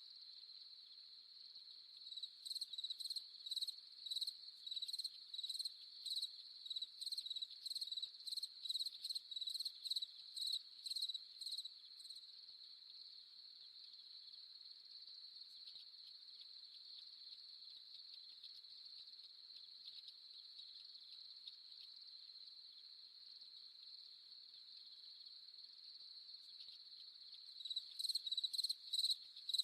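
Night insects, crickets: a steady high-pitched trill throughout. A louder chirping call pulses about twice a second from about two seconds in until about twelve seconds, then starts again near the end.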